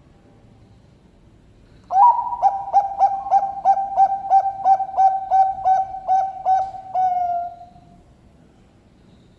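Bangkok-strain zebra dove (perkutut) cooing its contest song: about two seconds in, a quick run of around fourteen short, evenly paced notes on one steady pitch, ending in a longer drawn-out note.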